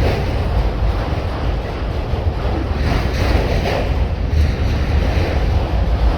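Wind buffeting the microphone: a heavy, steady low rumble with a rushing hiss over it.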